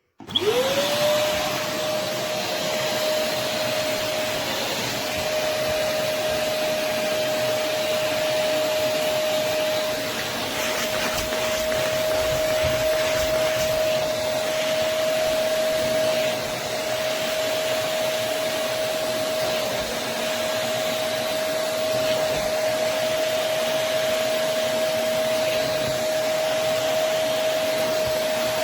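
Vacmaster SCA0801 carpet and spot cleaner's suction motor switched on, spinning up within half a second and then running steadily with a high whine over a loud rush of air.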